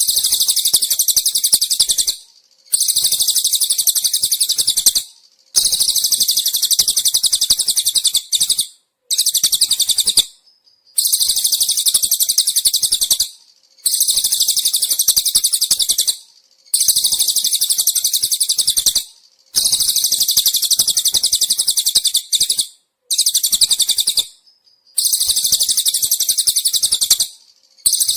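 Looped masteran bird-training recording of a rapid, high-pitched trill, repeated in bursts of two to three seconds with short breaks between them.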